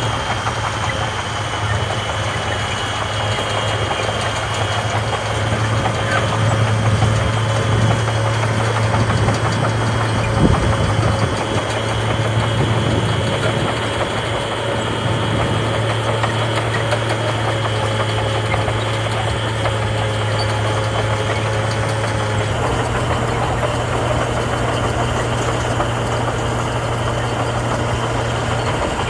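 Heavy diesel engine of earthmoving machinery running steadily, with a short thump about ten seconds in and a shift in engine tone a few seconds before the end.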